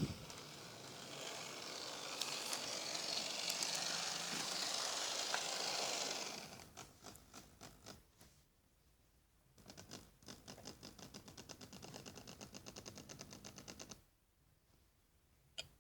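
Model railway locomotive running on the track. There is a steady rushing noise for about six seconds, then rapid rhythmic clicking that stops and starts again before falling quiet near the end.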